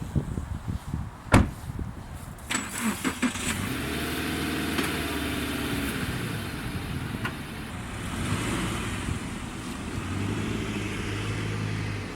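A car door shuts with a sharp thud about a second in, and a few clicks follow. Then a car engine runs, its pitch rising and falling as the car drives.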